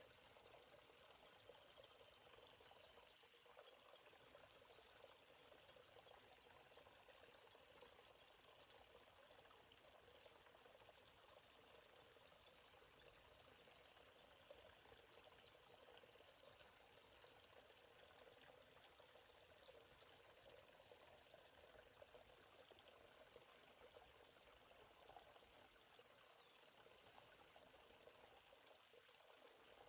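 Steady high-pitched chorus of insects, with the faint murmur of a flowing stream beneath.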